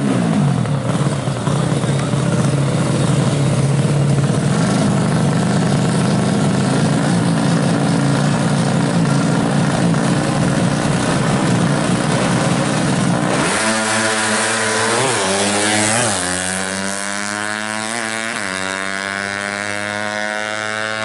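A 150cc drag-bike engine running loud and steady with a rough tone. About two-thirds of the way through it turns smoother, and its pitch swings up and down a few times as it is revved.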